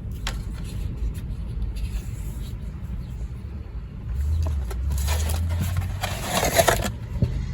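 Wind rumble on the microphone, with a car passing by outside that swells and fades over the second half. Small handling clicks of cardboard packaging are also heard.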